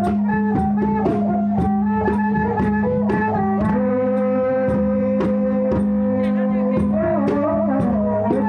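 Traditional Khmer-Surin folk ensemble music for the mamuat trance dance. A stepping melody plays over a steady low drone, with percussion clicking a regular beat throughout.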